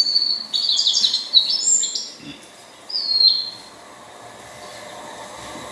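Varied bunting singing: a quick run of high, sharp chirping notes over the first two seconds, then a single falling note about three seconds in.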